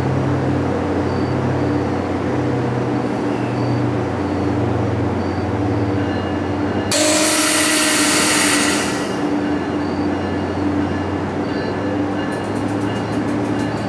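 NJ Transit commuter train standing at the platform, its engine and onboard equipment giving a steady hum. About seven seconds in, a loud burst of air hiss lasts around two seconds. Fast faint ticking starts near the end.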